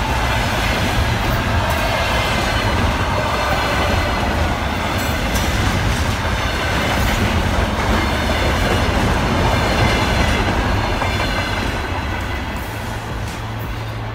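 Container freight train passing close by: steel wheels rolling over the rails with a steady rumble and repeated clacks at the rail joints. The sound fades near the end as the last wagons move away.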